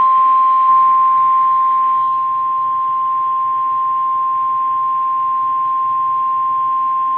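NOAA Weather Radio 1050 Hz warning alarm tone: a single steady high-pitched beep held without a break over faint radio hiss, signalling that a weather warning is about to be broadcast.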